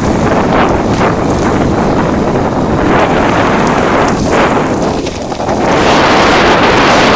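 Wind rushing over the microphone during a ride, a loud steady roar, with a high shrill cicada drone swelling midway through.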